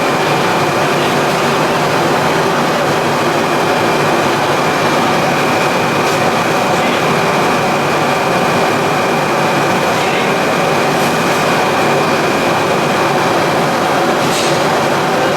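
Plastic pelletizing line machinery for PE and calcium carbonate compound running steadily: a dense, even mechanical noise with a thin high steady whine over it and a few faint clicks.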